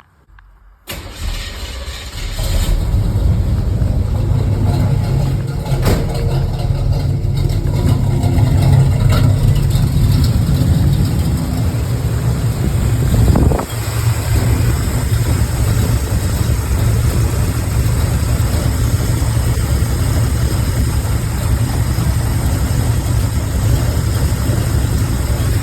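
Cammed 305 small-block Chevy V8 being started, catching after about a second of cranking and settling into a loud, steady lumpy idle, with a brief surge and dip about halfway through. The engine is still suffering the rough-idle random misfire being chased, later traced to a spark plug wire grounding out on the header.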